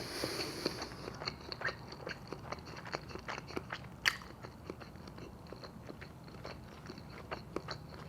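A person chewing food close to the microphone: a run of short wet clicks and smacks of the mouth, with one sharper click about four seconds in.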